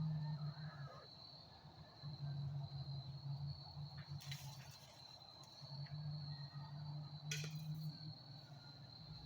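Crickets keep up a steady, high-pitched trill. A low hum fades in and out in stretches of a second or two, and there are two sharp clicks, about four and seven seconds in.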